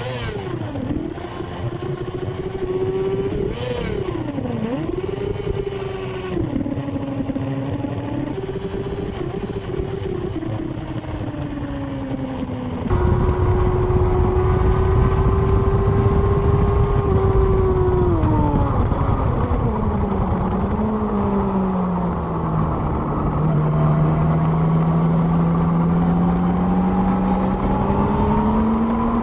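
Yamaha R6 inline-four sport bike engine on a racetrack, revving up and dropping through quick gear changes, then holding high revs, falling away as it slows about two-thirds through and climbing again near the end. Wind rush on the microphone grows louder about halfway through.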